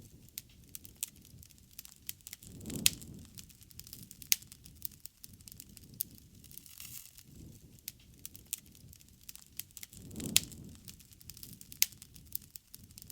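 Wood fire crackling and popping: sharp snaps scattered over a soft low rushing of flame, which swells twice, with the loudest pops about three seconds in and again near ten seconds.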